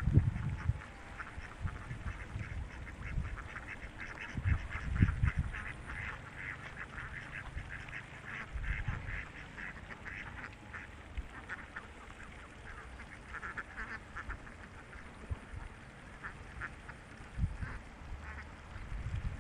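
A large flock of ducks quacking, many calls overlapping, thickest in the first half and thinning out later. A few low rumbles break in near the start, about five seconds in and near the end.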